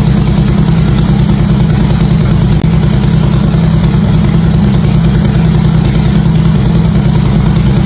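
Harley-Davidson V-twin engine idling steadily, its exhaust putting out an even run of low pulses with no revving.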